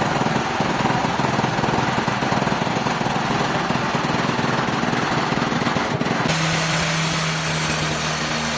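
Sawmill machinery running with a loud, dense rattle, which changes abruptly about six seconds in to a steadier hum with more hiss.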